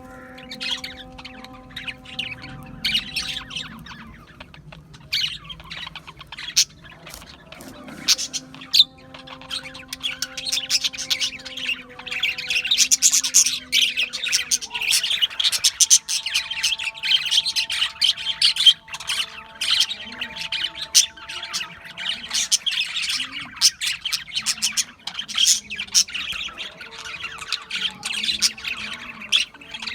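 A flock of budgerigars chirping and squawking in rapid, overlapping calls, growing busier and louder about halfway through.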